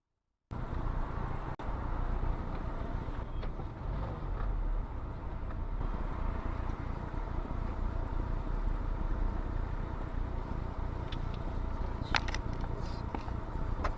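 Steady road and engine rumble of a car driving, starting abruptly about half a second in, with a few faint clicks near the end.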